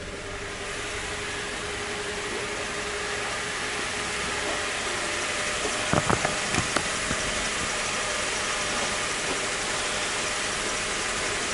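Toyota Hilux Surf engine idling steadily, with a few sharp clicks about six seconds in.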